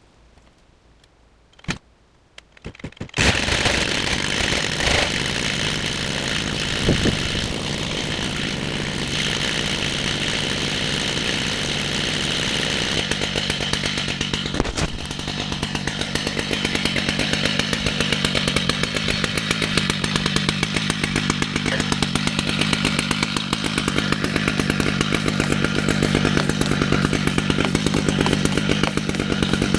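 Two-stroke chainsaw starting about three seconds in and then running at high revs. From about halfway on it settles into a steady, slightly louder pulsing run as it cuts lengthwise through a red oak log in a chainsaw mill.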